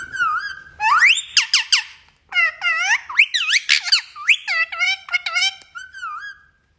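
Pet green parrot giving a rapid run of shrill chirps and whistles that sweep up and down in pitch, with a brief pause about two seconds in.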